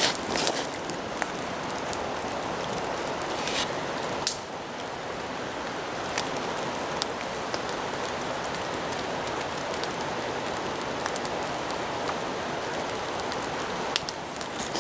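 Steady rain falling, an even hiss with scattered sharp ticks and pops.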